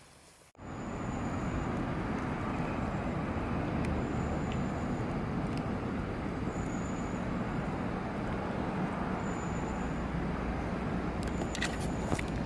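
Steady outdoor noise, an even rushing that starts abruptly about half a second in, with faint short high tones now and then.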